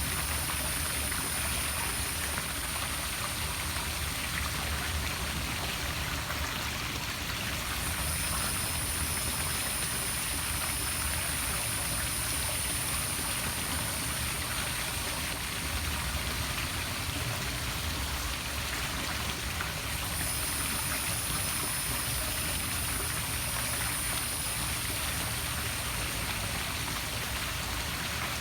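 Poolside waterfall splashing steadily into a swimming pool, a constant rushing of falling water.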